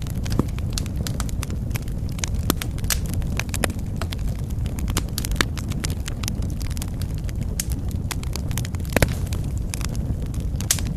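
Wood fire crackling in a fireplace: a low steady rumble of flames with sharp irregular pops and snaps, one louder pop about nine seconds in.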